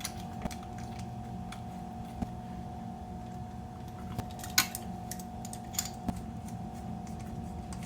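A few scattered light clicks and ticks, the sharpest about four and a half seconds in, over a steady hum.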